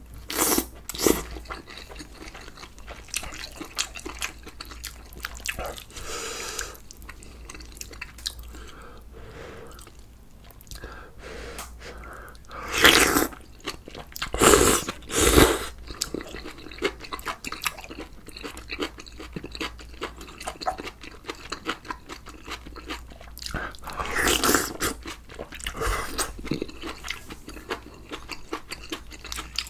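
Close-miked eating sounds of a man working through a spicy beef offal soup meal with rice, kimchi and whole raw onion: steady chewing with small wet clicks, and several louder crunching bites about halfway through and again near the end.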